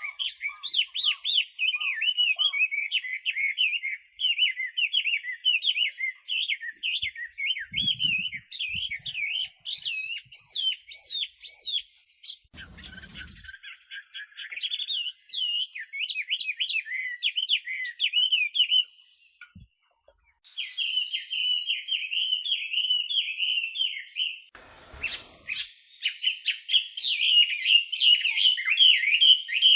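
Chinese hwamei (a laughingthrush) singing: a fast, varied run of sliding whistled phrases that breaks off briefly twice. A few soft low thumps come between the phrases.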